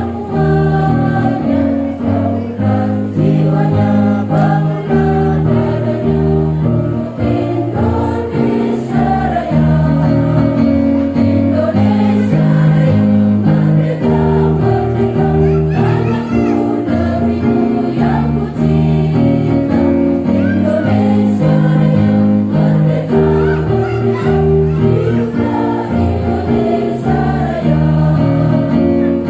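A choir sings an anthem with instrumental accompaniment, in slow sustained chords that change about every second.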